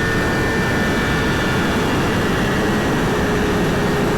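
Steady rush of wind over a helmet camera's microphone at highway speed on a Suzuki GSX-R1000, with the inline-four engine holding a steady drone underneath.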